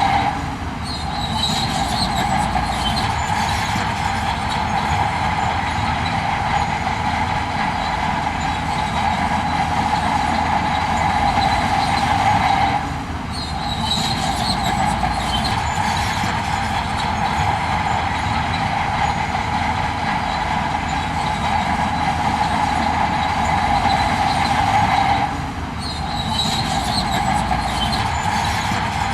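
Heavy earthmoving machinery running steadily, a loud engine and mechanical drone. The sound drops sharply about every twelve and a half seconds and picks up again with a few short high metallic squeaks.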